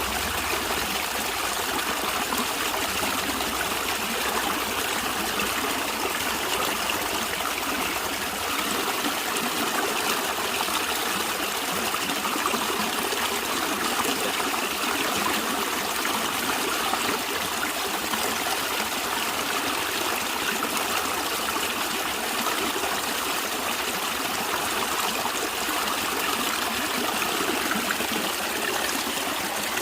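Natural stream of running water, flowing and trickling steadily.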